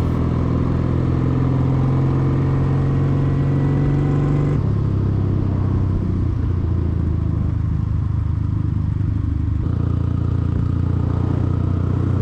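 Motorcycle engine running at a steady cruise, heard from on the bike along with wind and road noise. The engine note changes abruptly twice, about four and a half and about nine and a half seconds in.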